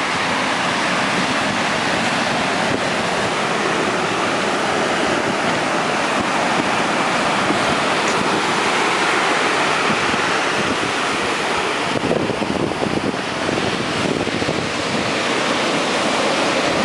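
Heavy storm surf breaking and rushing on the beach, a steady dense wash of noise, with wind buffeting the microphone.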